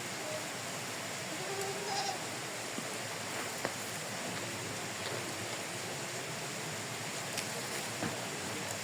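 Livestock bleating faintly, a few short wavering calls, over a steady rushing background noise, with a few light clicks.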